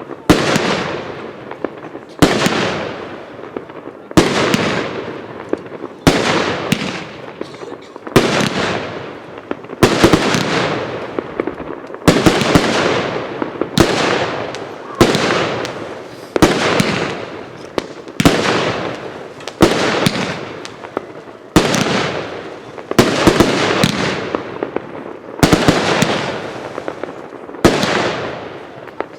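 Fireworks cake 'Fireworks Fall' firing shot after shot: a sharp bang about every one to two seconds, each trailing off over a second or so before the next.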